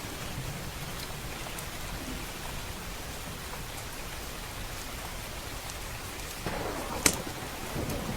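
Steady rain with a few sharp wood-fire crackles over it, one loud pop about seven seconds in.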